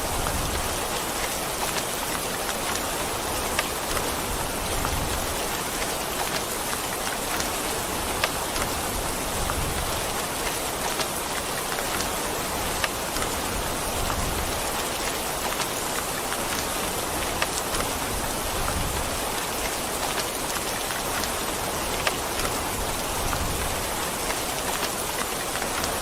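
Steady rain falling, an even hiss of drops on a surface with scattered sharper drop ticks.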